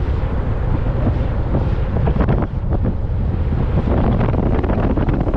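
Wind buffeting the microphone: a loud, uneven rumbling rush with no steady tone.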